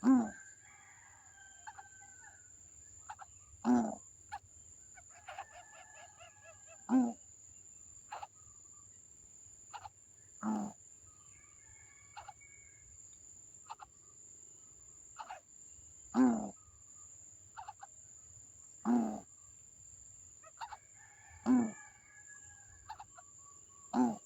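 An animal gives a loud, short call about every three seconds, eight times in all, with softer, higher chattering calls in between. A thin, steady high-pitched whine runs underneath.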